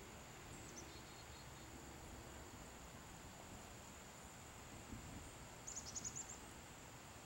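Faint steady high-pitched insect drone, typical of crickets or katydids, with a short run of quick chirps about six seconds in.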